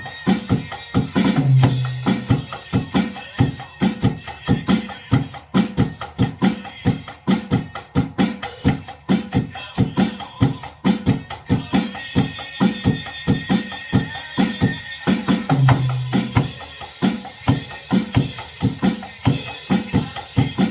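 Drum kit played along with a Korean contemporary Christian song's recording, keeping a steady, even beat over the backing track.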